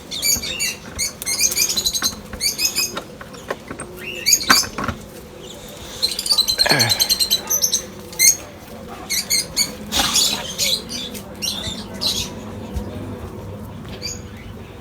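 Small aviary birds chirping in fast runs of high, squeaky notes, with scattered single calls between the runs.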